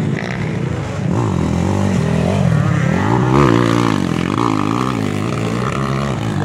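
Motocross dirt bike engines racing, revving up and down so the pitch rises and falls, with more than one bike heard at once.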